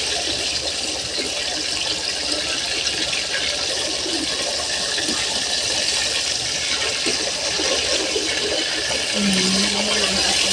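Fish steaks frying in oil and sauce in a steel wok: a steady sizzle throughout. A brief low hum comes about nine seconds in.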